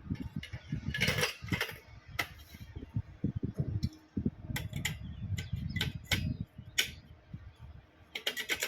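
Metal pump parts (impellers, bowls, bushes and sleeves of a multistage high-pressure pump) clinking and knocking against each other as they are handled and fitted by hand. The clinks come irregularly, with a quick run of them near the end, over dull low handling thuds.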